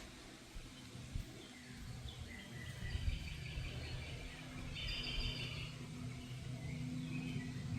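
Birds chirping in short calls, twice, over a low steady rumble that gets louder a couple of seconds in.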